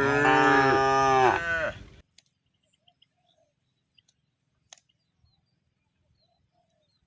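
A cow mooing once, a loud call of about two seconds with a wavering pitch, at the very start.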